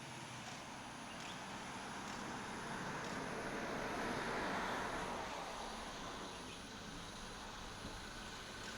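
A vehicle passing by on the road: tyre and engine noise swells to a peak about four to five seconds in and then fades away.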